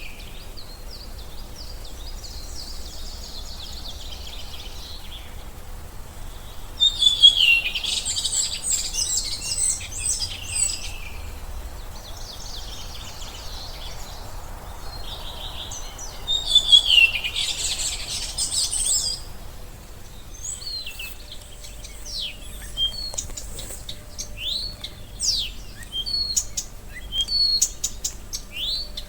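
Songbirds singing: two long phrases of rapid high notes, each about three to four seconds, the first about a quarter of the way in and the second past the middle, then many short, quick chirps in the last third.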